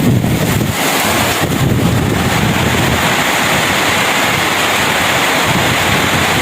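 Steady rushing noise of wind, buffeting the microphone with a heavier low rumble during the first second.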